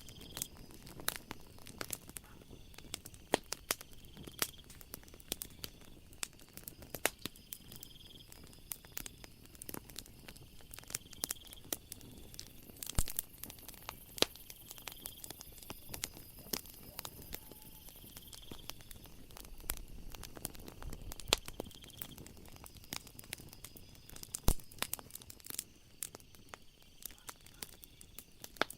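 Wood fire crackling, with irregular sharp pops and snaps, under a soft background hiss. Night insects chirp behind it, a short high chirp repeating every couple of seconds.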